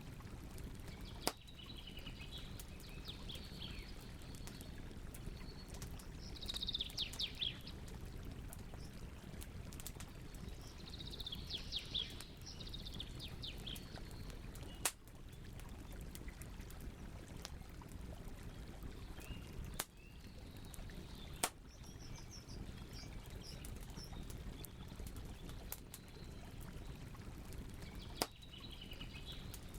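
Campfire burning with a low steady hiss, broken by a handful of sharp pops. Birds chirp and sing in short phrases several times over it.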